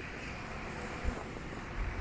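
Wind buffeting the microphone, an uneven low rumble over a steady hiss of outdoor background noise.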